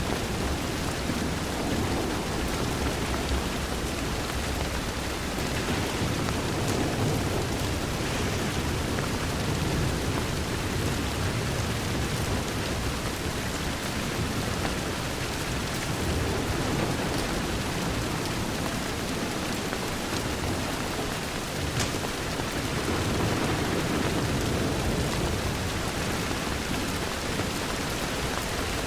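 Steady heavy rain pattering on a window, an even hiss with slow, low rumbling swells rising and falling, and a single faint click about three-quarters of the way through.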